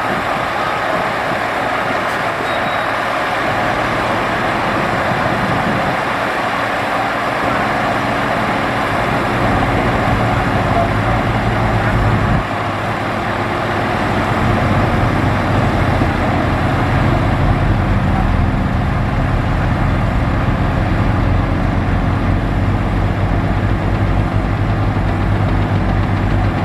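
Heavy diesel earthmoving machinery running steadily, its deep engine note growing stronger about halfway through.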